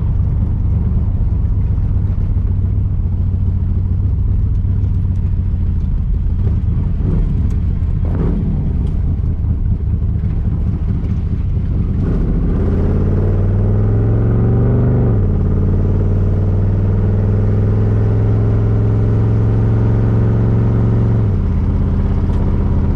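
1982 Camaro's 5.0 V8 running through its new mufflers, heard from inside the car while driving. It holds a steady cruise, then its revs climb for a few seconds and drop sharply, as in a gear change. Near the end the revs step down again.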